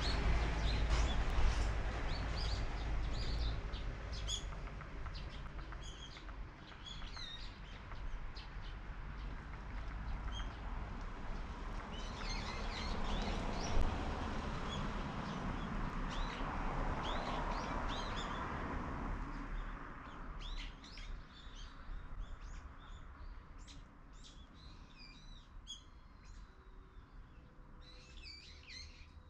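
Small birds chirping and calling in short high notes over a low rumble that fades out about twenty seconds in. After that, the chirps stand out clearly against a quieter background.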